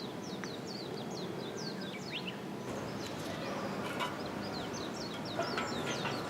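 Small birds singing in rapid series of short, high chirps, pausing for a few seconds in the middle, over a steady low outdoor background noise, with a few sharp clicks during the pause.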